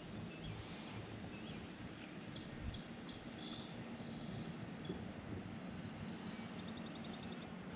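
Faint outdoor ambience with small songbirds chirping, including a rapid trill about four seconds in and another shorter trill near the end, over a steady low hum.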